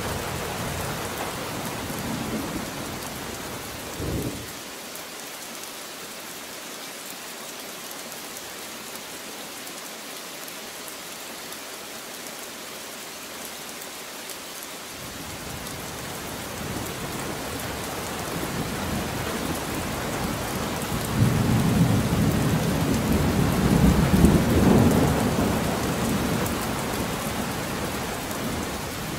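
Steady rain falling, an even hiss. A low rumble of thunder builds in the second half and is loudest a few seconds before the end, then eases.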